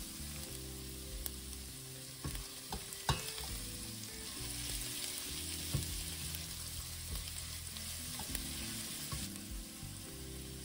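Chopped shallots sizzling steadily in hot oil in a stainless steel saucepan, stirred with a silicone spatula, with a few sharp clicks of the spatula against the pan about two to three seconds in and again near six seconds.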